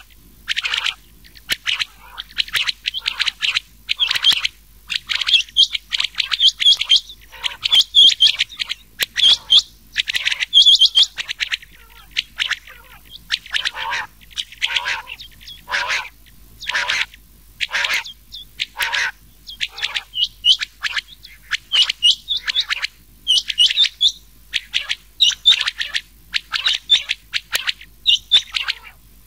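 Rain quail calls mixed with the calls of another quail, short sharp notes repeated in quick runs with brief pauses: a recorded lure call for quail hunting.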